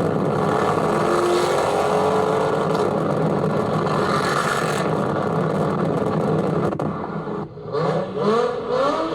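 Car engine revving amid loud vehicle noise, with a rising whine about a second in. The sound dips briefly near the end and gives way to short rising-and-falling tones.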